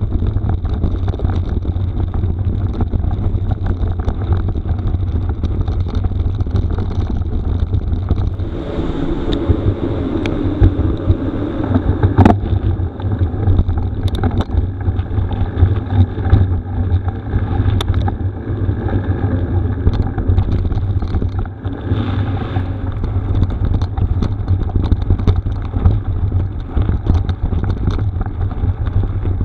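Wind buffeting the microphone of a camera on a moving mountain bike, a steady low rumble mixed with tyre noise on a rough gravel road, with scattered sharp clicks and rattles.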